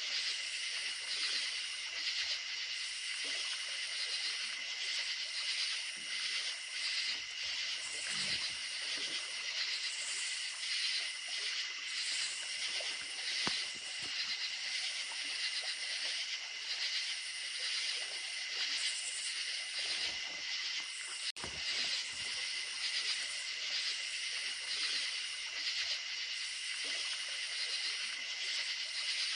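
A chorus of crickets trilling steadily at night in several high-pitched bands, with creek water running faintly beneath. There is a brief dropout with a click about two-thirds of the way through.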